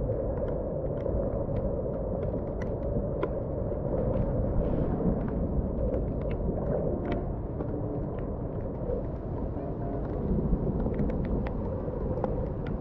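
Rain outdoors: a steady low rumbling noise with scattered light ticks throughout.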